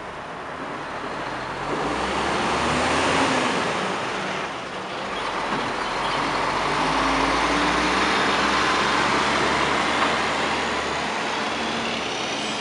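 Mazda CX-9 SUV's V6 engine running at low speed as the SUV reverses up a ramp into a steel shipping container, swelling and easing in loudness, loudest in the second half.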